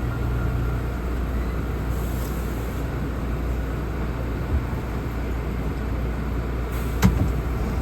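Steady low rumble and hum inside an R179 subway car, with a sharp click about seven seconds in.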